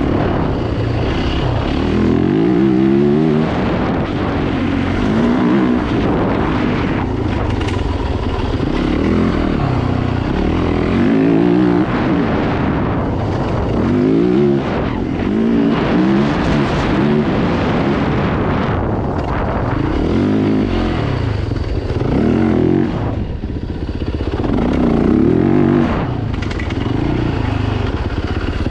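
Dirt bike engines revving hard, the pitch climbing and dropping back again and again every second or two as the riders work the throttle and gears.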